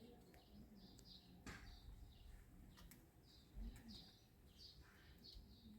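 Faint small-bird chirps repeating about twice a second, over a low background rumble.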